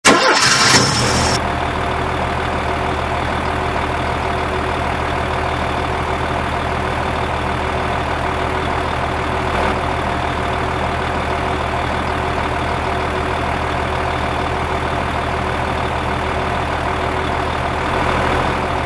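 Steady truck engine idling sound, an even low drone that holds the same pitch and loudness throughout, after a brief louder, brighter sound in the first second.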